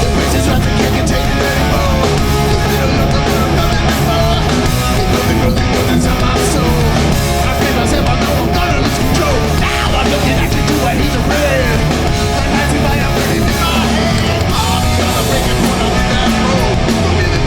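Hardcore punk band playing live, with loud distorted guitars, bass and drums, and a voice singing in places over the mix.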